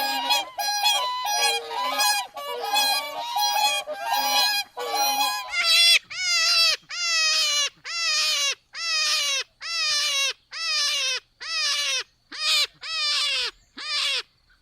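Large waterfowl honking, many calls overlapping at first. After about five seconds the calls come singly, about one a second, each a short honk that drops in pitch at its end.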